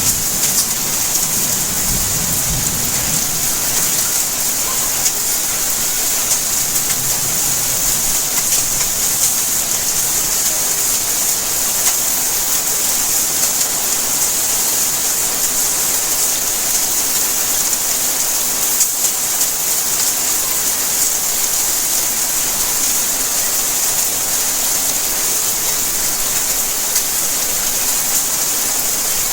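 Steady heavy rain falling, a dense even hiss with many fine drop ticks. A low rumble of thunder fades out in the first couple of seconds.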